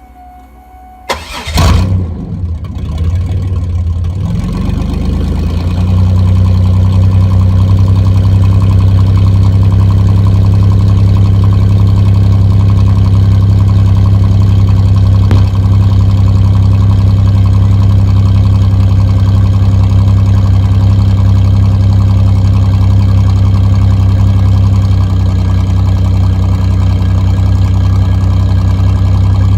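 A 2004 Pontiac Grand Prix GTP's supercharged 3800 V6 starts about a second in with a sharp rev flare, then settles into a steady, loud idle through its exhaust.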